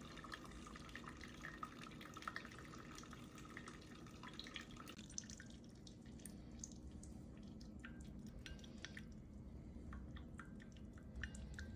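Two drip coffee makers, a Fellow Aiden and a Ninja Hot & Iced, brewing: faint dripping and trickling of coffee into glasses over a low steady hum, with scattered small ticks.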